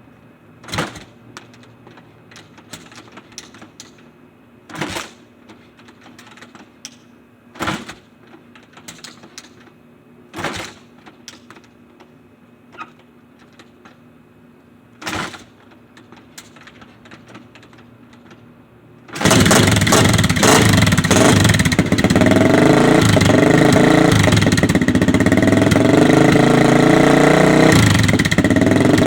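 1985 Honda XR350R single-cylinder four-stroke being kick-started cold without the decompression lever: five sharp kicks spaced a few seconds apart, with smaller clicks in between, then about two-thirds of the way in the engine catches and runs loudly, its pitch rising and falling as the throttle is blipped.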